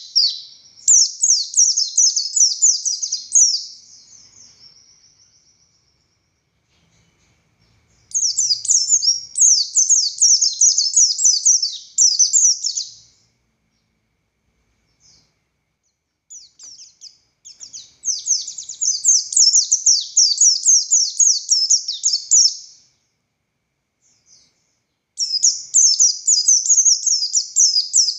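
Buxtoni white-eye (pleci) singing long, fast, high-pitched phrases of many quick downward-sweeping notes. Four bouts come in turn, with short pauses between them; the first trails off softly before the first pause.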